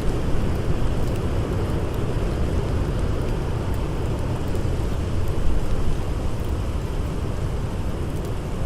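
Blizzard wind blowing steadily in a deep, rushing roar, with a few faint crackles of a campfire over it.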